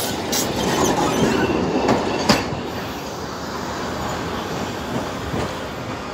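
Passenger train rolling past on steel rails, its wheels clicking sharply over the track in the first couple of seconds. The rumble then settles and slowly fades as the train draws away.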